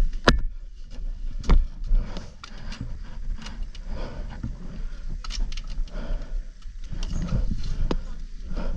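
Knocks, clanks and scraping with a low rumble as an off-road motorcycle is hauled forward over rocks, with one sharp crack just after the start.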